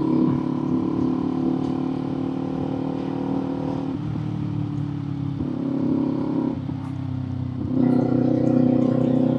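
Kawasaki Z400 parallel-twin engine running steadily on the move, its note swelling louder twice as the throttle is opened, about halfway through and again near the end.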